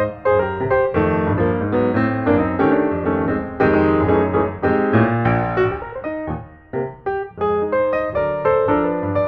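Background piano music: chords and a melody played at an even pace.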